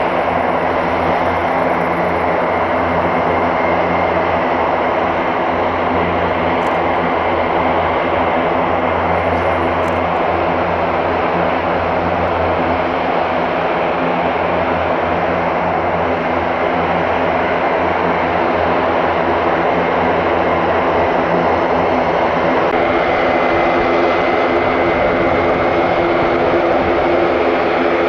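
Airbus A400M's four TP400 turboprop engines running steadily, a loud propeller drone with a thin high whine over it. The tones shift slightly near the end.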